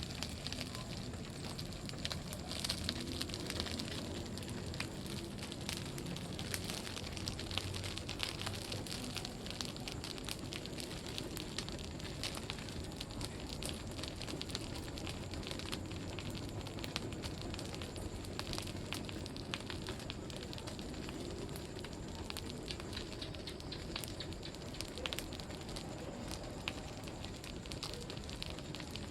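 Bonfire burning with a steady crackle of many small sharp pops and snaps.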